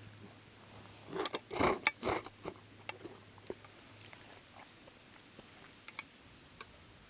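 A person eating hot udon noodles: a cluster of loud mouth-and-noodle sounds about a second in, then quieter chewing with small scattered clicks.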